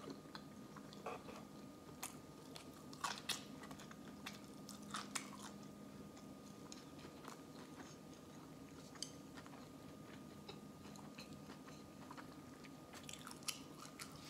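Close-miked chewing of a mouthful of sushi roll: faint, scattered wet mouth clicks, thickest a couple of seconds in and again near the end, over a low steady hum.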